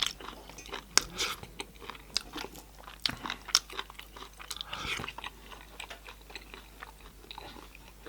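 Close-miked eating: chewing and biting into goat-head meat, with irregular sharp clicks and crunches.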